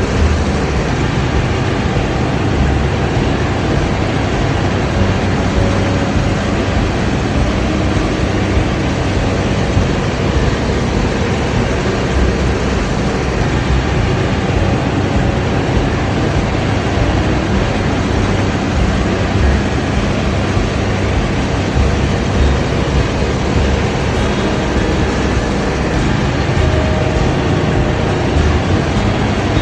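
Combine harvester running steadily under load, a loud, unbroken machine drone with a deep engine rumble underneath.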